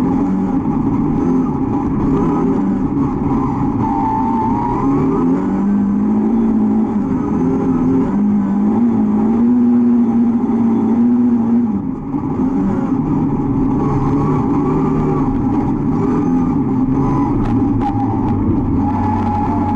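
Volvo 242 rally car's engine, heard from inside the cabin, revving hard under load. Its pitch climbs and drops repeatedly with gear changes and throttle lifts, with a brief dip in level about twelve seconds in.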